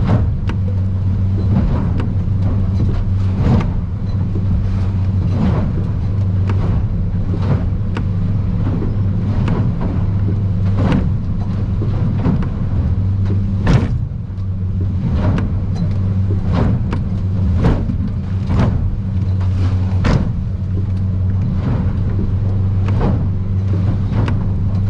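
Boat's outboard engine running steadily, heard from inside the cabin of an aluminium boat in rough water. Sharp hits come roughly once a second.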